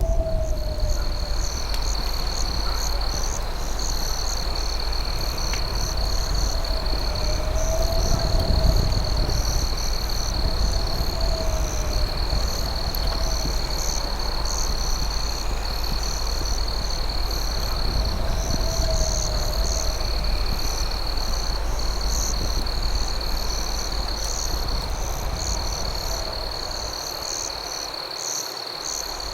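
Night insect chorus: crickets trilling steadily at a high pitch with brief breaks, and more insects pulsing above them. A lower call rises and falls every few seconds, over a steady low rumble.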